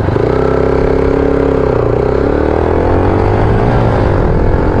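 Yamaha YBR 125G's single-cylinder four-stroke engine pulling away under acceleration: the engine note holds steady for about two seconds, then rises in pitch, dips briefly near the end and starts rising again.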